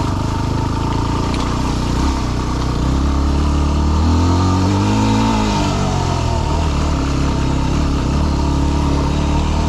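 Dirt bike engine running under load in low gear on a rough trail; the revs climb and then drop back again about halfway through.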